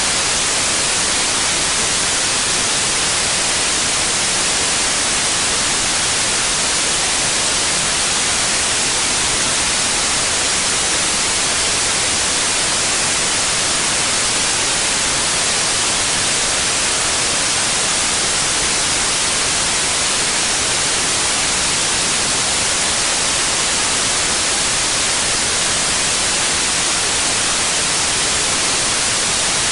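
Steady synthetic white noise: an even, unchanging hiss, bright and loud, with no other sound.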